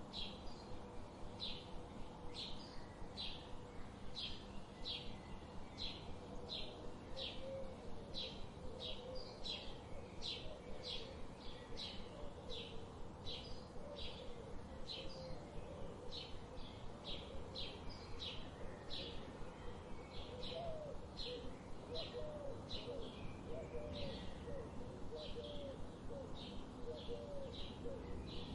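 Birds chirping: a steady run of short, high chirps, about three every two seconds, over a low background hiss. Lower, softer gliding calls join in about a third of the way through and come more often in the second half.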